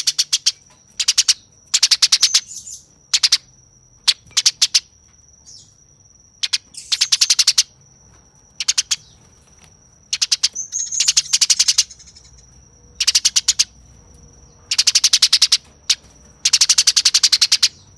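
Eurasian tree sparrow giving harsh, rapid chattering calls, the aggressive 'fighting' chatter, in bursts of very fast notes every second or two.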